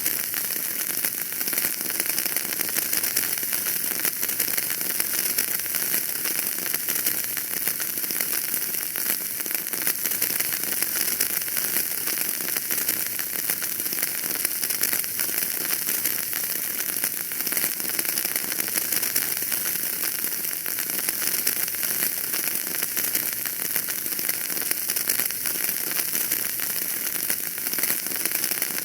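Wood fire burning in a fireplace, a steady dense crackle and hiss of many small pops.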